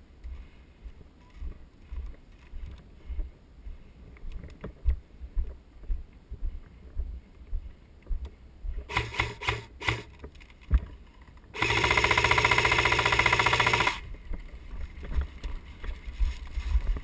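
Airsoft gun fire. First a few short sharp shots, then a loud rapid full-auto burst lasting a little over two seconds. Before it come soft footstep-like thumps of a player moving.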